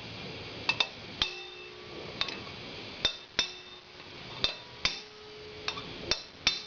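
Metal tools and valve parts being handled on a motorcycle cylinder head: about a dozen irregular sharp metallic clicks and knocks, several of them ringing briefly.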